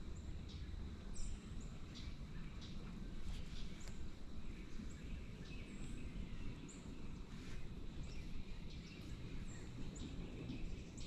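Small birds chirping, with many short, high chirps scattered throughout, over a steady low rumble.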